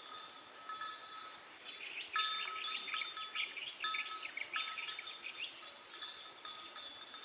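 Birds chirping in a quick run of short notes through the middle, over repeated clear ringing tones like chimes.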